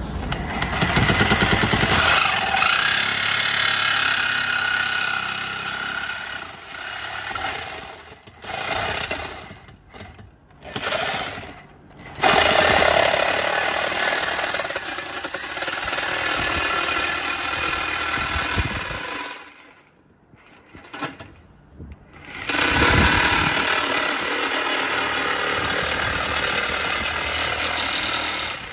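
Reciprocating saw cutting through a 5-inch steel exhaust pipe, stopping and starting several times, with a longer stop past the middle.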